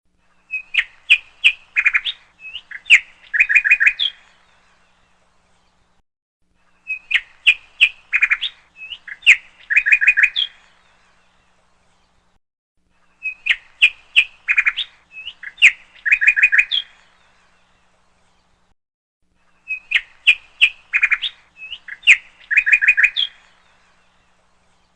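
Bird chirping: the same short phrase of quick tweets and trills, about three and a half seconds long, repeats four times at even six-and-a-half-second gaps with silence in between, like a looped recording.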